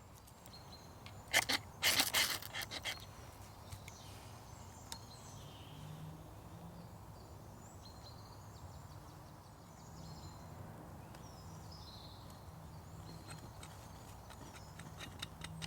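A few sharp scrapes and knocks in quick succession about a second in, then quiet woodland background with faint, scattered bird chirps.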